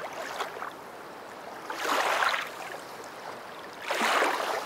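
Water sloshing and lapping in a hippo pool: a steady rushing noise that swells twice, about two seconds apart.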